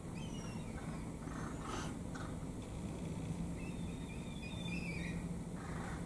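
Birds calling: a few short high chirps at the start and a longer wavering, warbling call from about three and a half to five seconds in, over a steady low hum.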